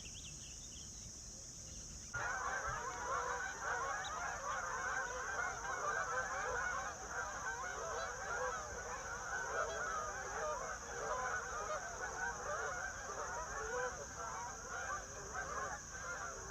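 A large flock of geese honking, many calls overlapping, starting abruptly about two seconds in, over a steady high-pitched insect chorus.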